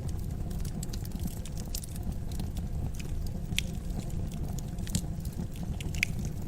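Wood fire burning with a steady low rumble and irregular crackles and pops, a few sharper ones standing out.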